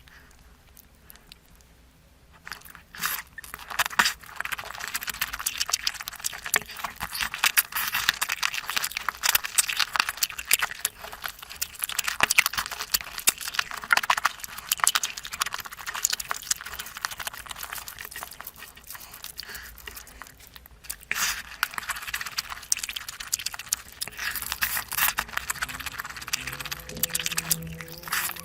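Close-miked eating: wet chewing, smacking and crackling mouth sounds made of many small clicks, with a short pause about three-quarters of the way through and a brief low hum near the end.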